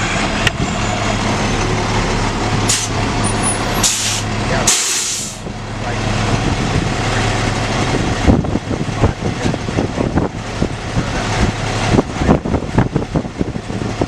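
Fire engine running with a steady hum, with two short loud hisses of air about four and five seconds in, typical of air brakes releasing, followed by a series of irregular knocks and rattles.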